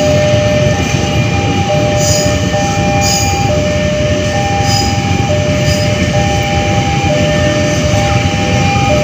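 KRL Commuter Line electric train passing with a steady rumble, while the level crossing's warning alarm sounds over it in two alternating tones, high and low, each held for under a second.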